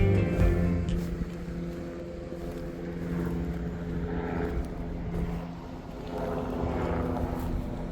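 A motor vessel's engine drones steadily with an even hum, while guitar music fades out in the first second.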